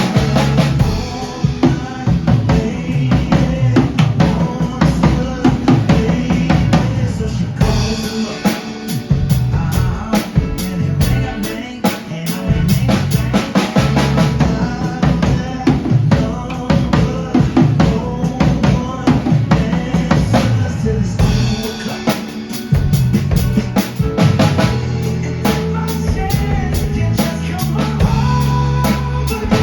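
Drum kit played in a steady groove, with bass drum, snare and rimshots, along to recorded backing music.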